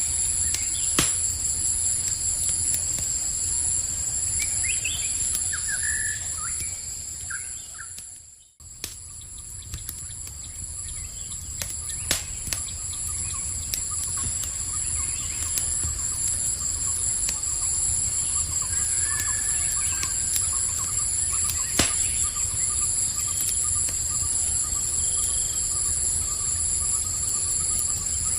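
Campfire crackling with sharp scattered pops over a low rumble, under a steady high-pitched insect chorus and a few short bird chirps. The sound dips almost to silence for a moment about eight seconds in, then comes back.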